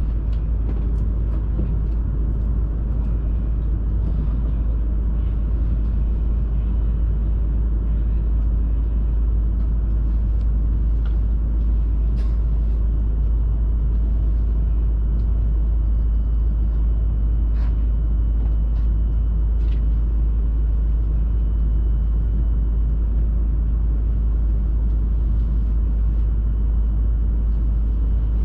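Steady low rumble of a Hayabusa shinkansen train running at speed, heard from inside the passenger cabin, with a few faint clicks and a faint steady high whine from about halfway.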